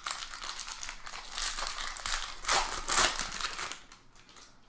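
Foil wrapper of a trading-card pack crinkling as it is handled and opened. The crinkling is loudest about three seconds in and dies down near the end.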